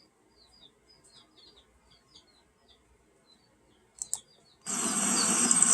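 Small birds chirping faintly, many short high chirps in quick succession. About four seconds in there is a brief double click, and near the end a loud, steady noise starts suddenly.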